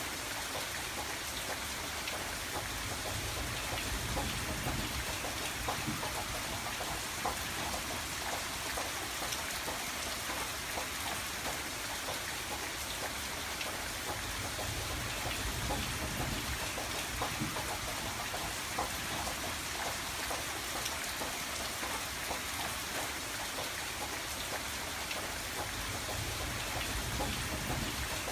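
Steady rain on a window glass: a continuous hiss with a dense patter of individual drops ticking against the pane, and a low rumble that swells and fades a few times.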